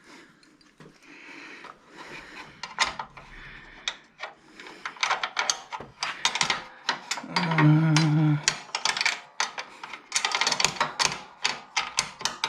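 Hand tools clicking and tapping against the metal parts of a mower engine in quick, irregular knocks that grow busier after the first couple of seconds, with a short low tone lasting about a second near the middle.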